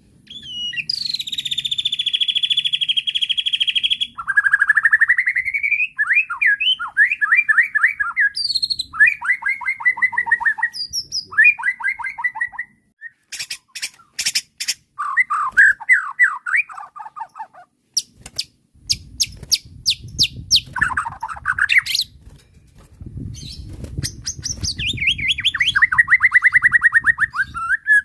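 White-rumped shama (murai batu) singing loudly: a varied run of fast trills, buzzy rattles and rising whistled sweeps, broken by short pauses, with a few sharp clicks in the middle. It is an agitated, full-repertoire song.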